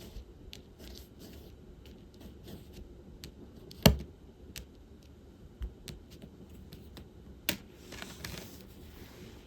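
Diamond painting work: a drill pen picks up and presses small resin drills, giving scattered light clicks and taps. There is one sharp, loud tap about four seconds in, a second tap a little before the end, and then a short rattle of loose drills.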